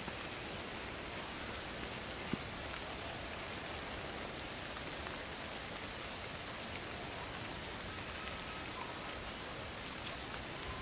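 Steady rain falling on foliage, an even hiss of drops, with one sharp tick about two seconds in.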